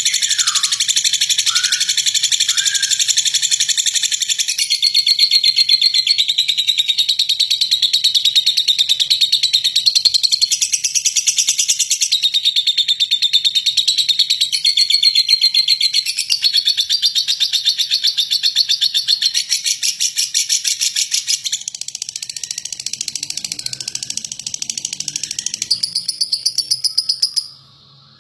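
Lovebird singing a long, rough, rapid chattering trill (ngeklek), running almost without a break and cutting off abruptly near the end.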